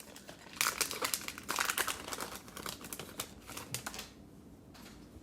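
Cellophane wrapper of a basketball card cello pack crinkling as it is handled and opened, a dense crackle that dies down about four seconds in.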